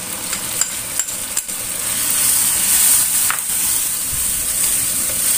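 Ground chilli paste and sliced onions sizzling steadily in hot oil in a stainless-steel wok, with a few light clicks of a utensil against the bowl and pan.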